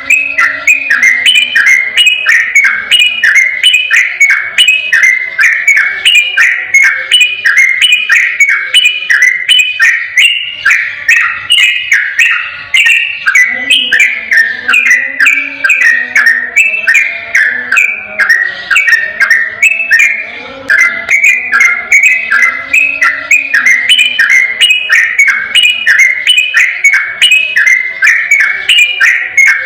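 Yellow-vented bulbul (trucukan) singing a long, unbroken run of rapid chirping notes, about three a second, in the 'ropel' style used as a tutor recording for caged birds.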